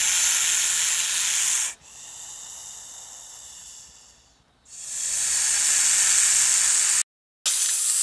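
Snake hissing: a run of long breathy hisses, each two to three seconds, with short breaks between them; the second hiss is much fainter than the others.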